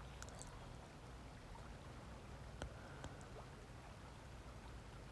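Forest water stream running faintly and steadily, with a few small clicks near the start and around the middle.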